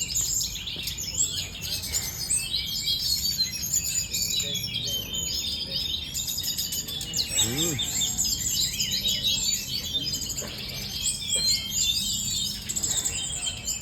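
A tledekan gunung songbird singing its fighting-style song: a rapid, unbroken stream of high chirps and twittering trills. About halfway through, a brief low call rises and falls once beneath it.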